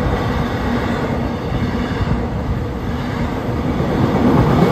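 Container cars at the tail of a Florida East Coast Railway freight train rolling past on the rails with a steady noise of wheels on track, growing a little louder near the end.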